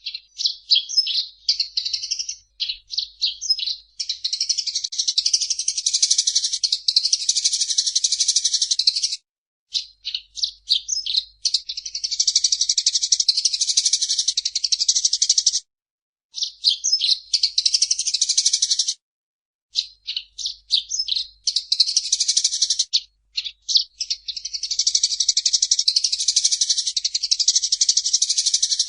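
Eurasian tree sparrow chirping: spells of short separate chirps alternate with long runs of rapid, continuous chattering, broken by a few brief pauses.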